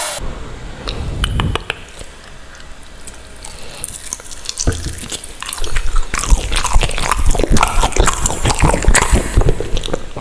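Close-miked mouth chewing ramen noodles, with many small wet clicks; quieter at first, then denser and louder from about halfway through.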